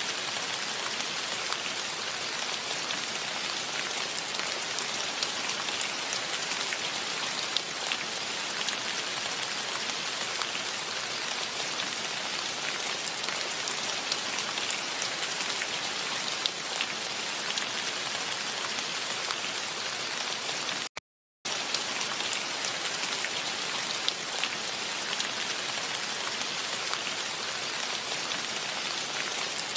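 Steady rain falling, an even hiss with small ticks of individual drops. The sound cuts out completely for about half a second roughly two-thirds of the way through, then resumes unchanged.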